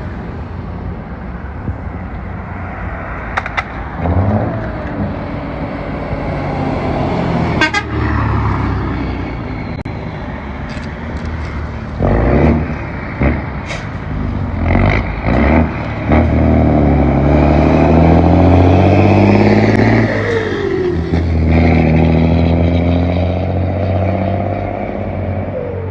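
Lorry engine running through its exhaust and being revved: a few short blips of throttle about halfway through, then a long, loud held rev that falls back toward idle.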